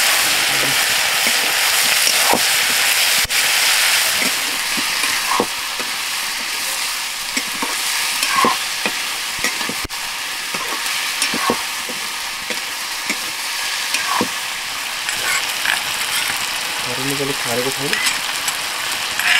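Chicken pieces sizzling in hot oil in a wok over a wood fire, stirred with a metal spatula that scrapes against the pan every second or two.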